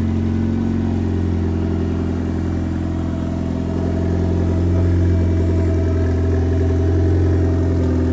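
A Nissan 240SX drift car's engine idles steadily as the car creeps off at low speed. It gets slightly louder about halfway through, with no revving.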